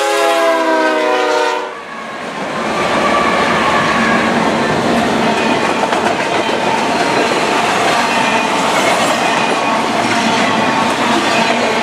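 Air horn of a BNSF freight locomotive consist sounding a chord as the lead units pass, cutting off about two seconds in. Then double-stack container well cars roll by with steady rolling noise and wheels clicking over the rails.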